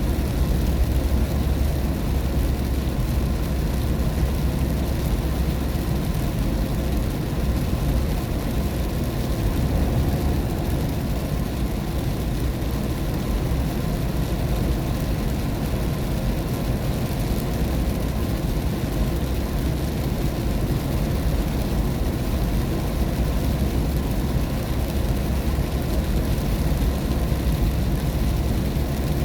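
Steady road noise inside a car driving on a rain-wet road: a low, even rumble of tyres and engine with a fainter hiss of water and rain above it.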